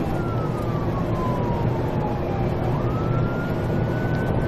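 Police car siren wailing in slow sweeps: the pitch falls for nearly three seconds, rises again, then starts to fall. Steady engine and road noise from the pursuing vehicle runs underneath.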